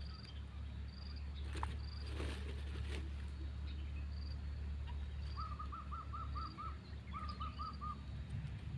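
A bird calling a quick run of about seven short chirping notes, then four more, while a high thin chirp repeats every half-second or so. A steady low rumble runs underneath, with a few light clicks in the first few seconds.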